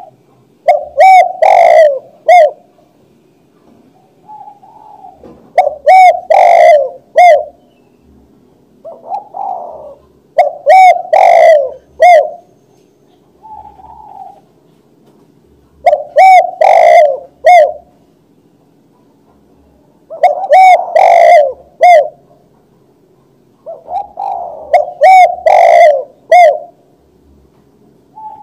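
Spotted dove cooing: six repeated coo phrases, about one every four to five seconds, each a run of three or four notes. A softer single note comes before most phrases.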